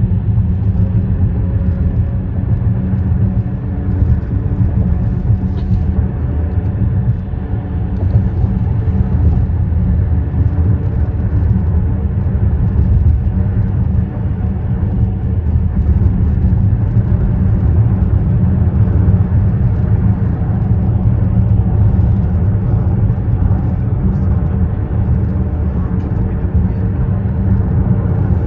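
Steady low rumble of a motor vehicle's tyres running over a concrete bridge deck.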